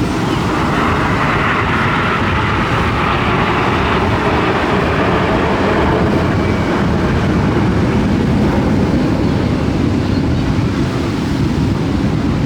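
Aircraft flying past: a steady rushing engine noise that shifts from a higher hiss to a lower rumble over several seconds, with wind buffeting the microphone.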